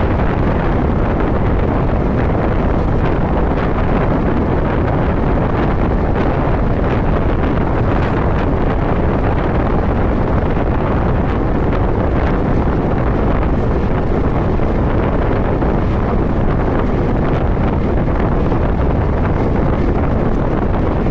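Steady wind rush on the microphone of a motorcycle riding at road speed, with the bike's running noise blended in.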